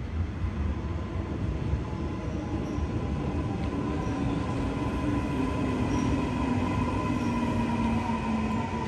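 Passenger train running: a steady rumble with a low motor whine that drops slightly in pitch over the last few seconds.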